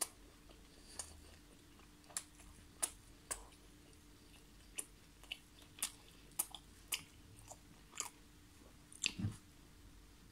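Close-miked chewing with the mouth closed: irregular wet clicks and smacks, about fifteen in all. One louder, deeper knock comes near the end.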